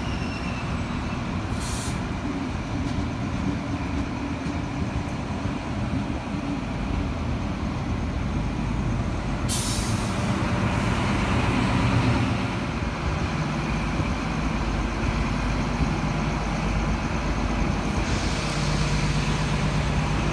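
New Intercity Fleet electric train set rolling slowly past the platform with a steady low rumble that swells midway. Two short, sharp hisses of compressed air come about two seconds in and about nine seconds in.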